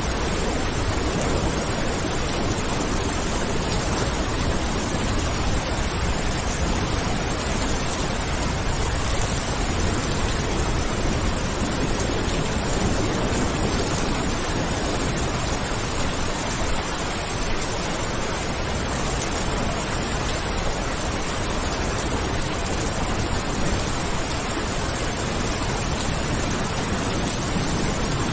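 Steady, heavy rain making a dense, even hiss with a low undertone, no single drops standing out.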